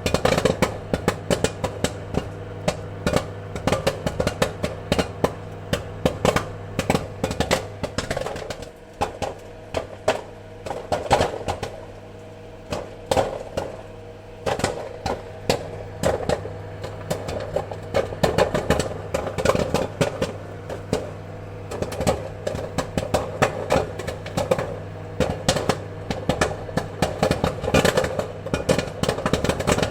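Popcorn kernels popping in quick, irregular succession, sharp pops over a steady low hum. The pops thin out for a few seconds about a third of the way through, then come thick again.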